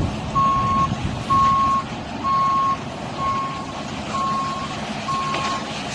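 Truck reversing alarm beeping about once a second, each beep a steady mid-pitched tone lasting about half a second, over engine and outdoor noise.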